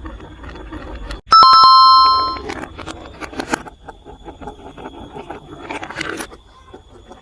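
Marbles rolling and clattering along a plastic marble-run track. About a second in, a bell is struck once and rings loudly for about a second before fading.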